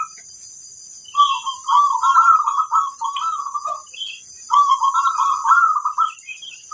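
Zebra dove (perkutut) cooing in two long phrases of rapid, warbling coos, the first starting about a second in and the second about four and a half seconds in. A steady high-pitched whine runs underneath.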